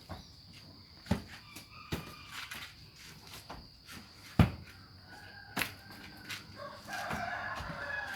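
Chickens clucking with a rooster crowing about seven seconds in, among scattered sharp knocks; the loudest knock comes midway. A steady high whine runs underneath.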